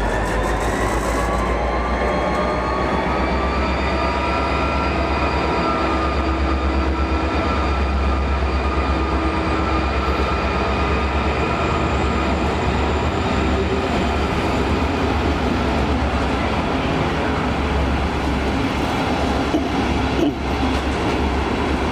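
Diesel-electric locomotive hauling a double-deck passenger train as it pulls away and accelerates. A whine rises in pitch over the first few seconds and then levels off, over a steady low rumble.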